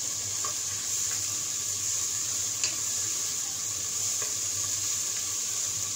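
Chopped vegetables sizzling in butter in a nonstick pan while being stirred with a spatula: a steady hiss, with one sharp tap about two and a half seconds in.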